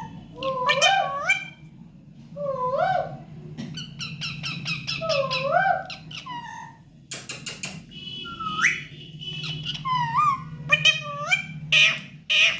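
Pet parrot calling, giving the same gliding whistled phrase over and over about every two seconds, broken by several short, sharp squawks.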